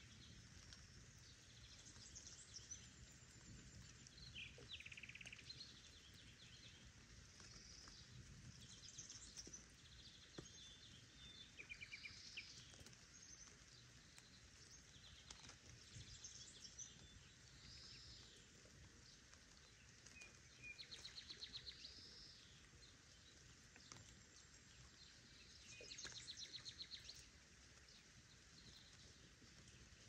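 Faint birdsong: several songbirds singing and calling, with rapid trills around the twentieth and twenty-sixth seconds, over a soft steady background hiss.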